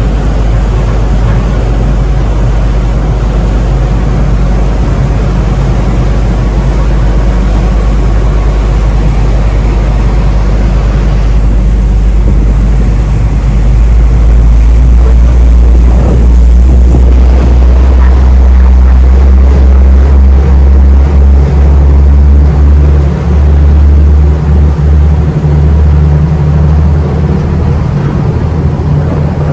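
Ferry's diesel engine droning steadily, heard from on board; about halfway through it grows louder and deeper, as the engine works harder. Wind buffets the microphone near the end.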